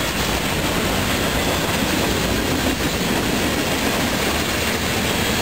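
Freight train cars (covered hoppers and tank cars) rolling past at a grade crossing: a steady noise of steel wheels running on the rails.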